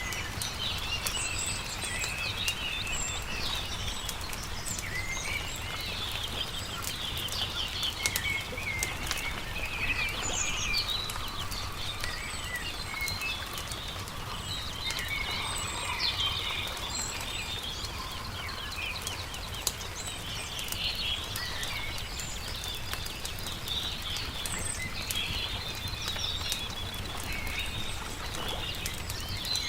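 Songbirds chirping and singing busily over a crackling campfire, with many small sharp pops from the burning wood. A low steady rumble runs underneath.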